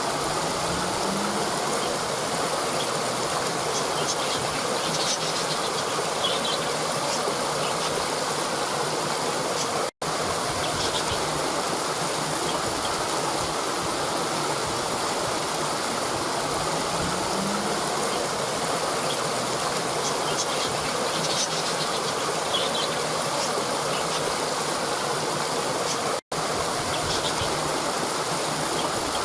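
Waterfall pouring over rocks: a steady rushing of water, with faint bird chirps in the background a few seconds in and again past the middle. The sound cuts out for an instant twice, about 10 s and 26 s in.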